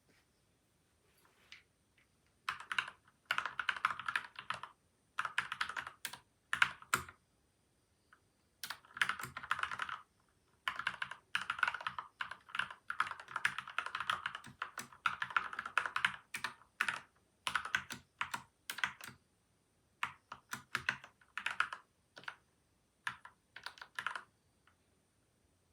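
Fast typing in bursts on a PCL87 mechanical keyboard with lubed linear switches and stabilisers, its case damped with layers of tape and foam. The runs of keystrokes start a couple of seconds in and stop with brief pauses between them.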